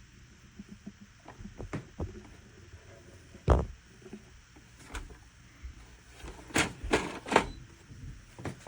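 A series of irregular clicks and knocks, the loudest about three and a half seconds in, with a quick cluster of them near the end.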